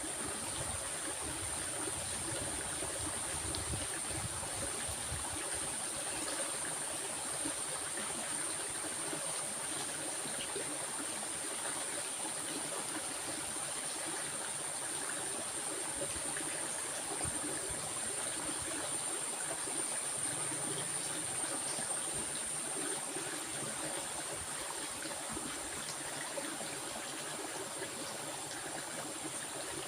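Stream water running and trickling in a steady flow, with a steady high-pitched whine above it.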